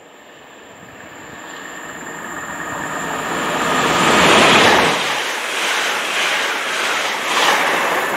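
A Hitachi Class 802 intercity train running through the station at speed. Its sound builds steadily as it approaches out of the tunnel, is loudest about four seconds in as the front passes, then goes on as an even rush while the coaches go by.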